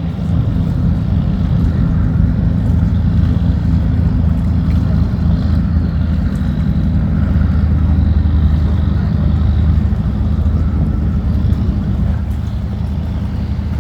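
A tugboat's inboard diesel engine runs steadily under load while towing cargo barges upstream, giving a deep, even engine hum that holds constant throughout.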